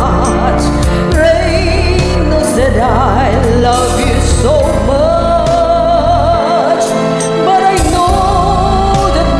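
A voice singing held, wavering notes over a karaoke backing track with bass and drums; the bass drops out briefly a little past the middle.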